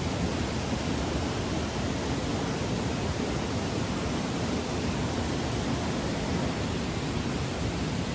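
Steady, even rush of water, unbroken and at an even level throughout.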